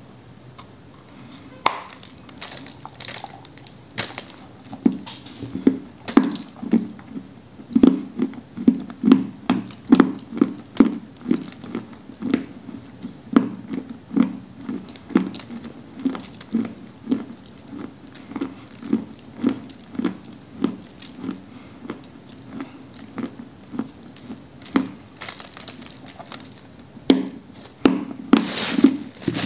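Close-up chewing of a block of pressed dry cream: a few crisp crunching bites at first, then steady wet chewing about one and a half times a second. A brief louder hiss comes near the end.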